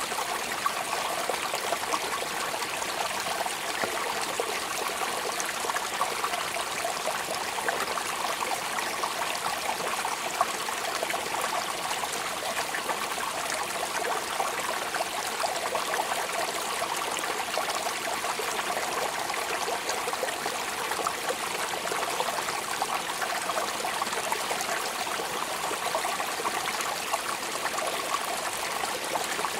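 Steady rain falling, an even hiss made of many small drop ticks that does not change.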